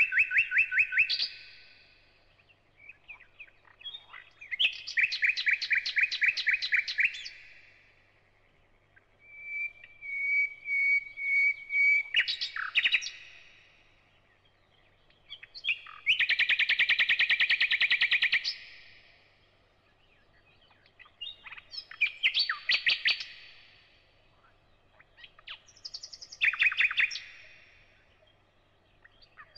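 A songbird singing: phrases of rapid trills and quickly repeated notes, each lasting two to three seconds, with pauses of a few seconds between them.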